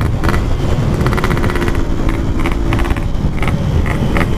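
Two-stroke motorcycle engine and exhaust running while riding, loud and steady, with a rapid pulsing exhaust rattle that comes and goes several times.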